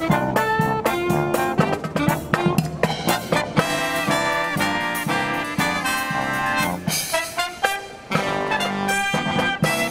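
Marching brass band playing a brisk jazz-style tune: trumpets and trombones carry the melody over steady drum strokes.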